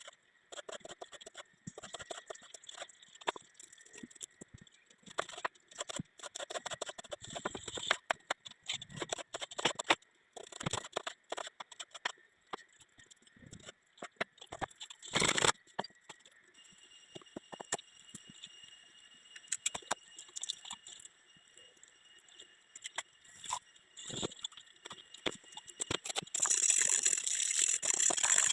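Kitchen prep sounds: irregular knocks and clicks of utensils and food being handled, with a louder hiss near the end.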